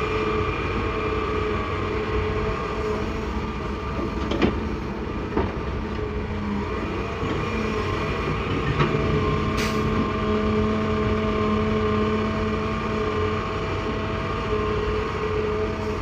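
Hitachi hydraulic excavator's diesel engine running under load with a steady hydraulic whine. A few sharp knocks come about four and a half and five and a half seconds in and again near nine seconds, with a brief high hiss just after.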